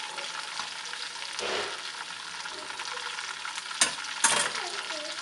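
Chicken pieces frying in hot oil in an iron wok (cheenachatti), a steady crackling sizzle with stirring. Two sharp knocks come about half a second apart near the end.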